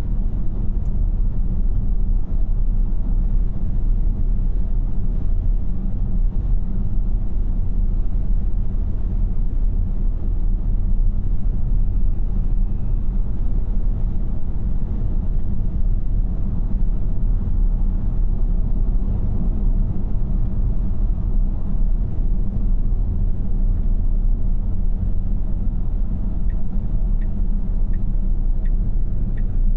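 Road and tyre noise inside the cabin of a 2026 Tesla Model Y AWD while driving, a steady low rumble with no engine sound from the electric drive. A faint run of regular ticks comes in near the end.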